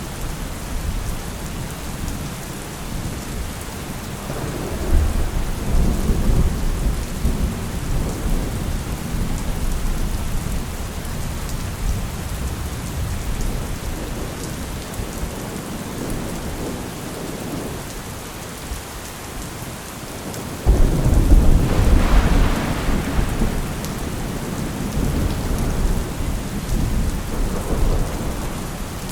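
Steady rain with rolling thunder: a rumble swells a few seconds in, then a sharper, louder thunderclap breaks about two-thirds of the way through and rolls off, with more distant rumbling near the end.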